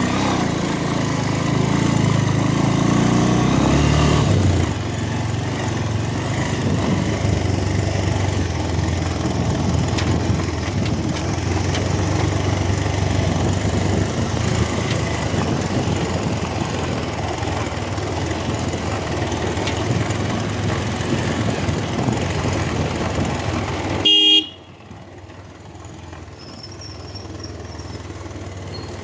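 Motorcycle running along the road with steady engine and wind noise, then a short horn beep about 24 seconds in. Right after the beep the sound drops suddenly to much quieter.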